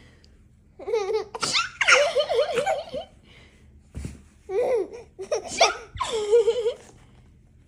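Baby laughing in several bouts of rapid belly laughs, one about a second in, then two or three shorter ones later, with brief pauses between.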